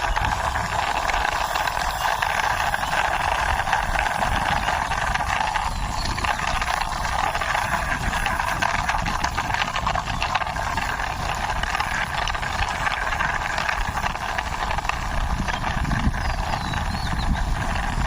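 Plastic toy police jeep pushed by hand along the ground, its wheels and body rolling with a steady rattling, gritty grinding full of small clicks.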